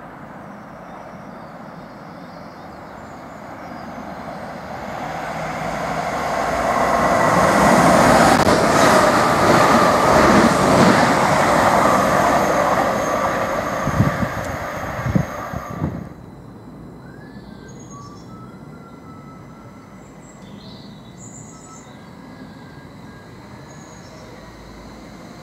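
Class 333 electric multiple unit approaching, its rushing noise building over several seconds to a loud steady peak, with a few sharp knocks near the end of the peak before the sound cuts off abruptly. A quieter stretch follows with birds chirping.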